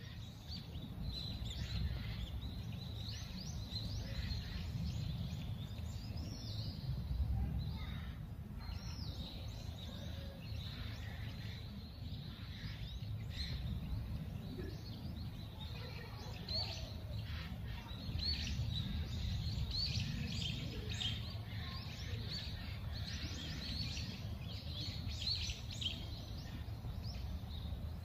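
Small birds chirping and twittering repeatedly, many short high calls, over a steady low rumble.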